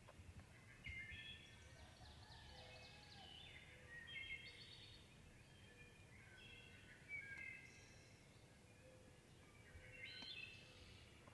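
Faint birdsong: several songbirds singing short, repeated phrases that overlap one another.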